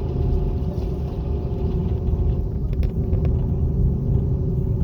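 Airliner engines running, heard inside the passenger cabin as a steady low rumble with a constant hum over it. A couple of faint ticks come about halfway through.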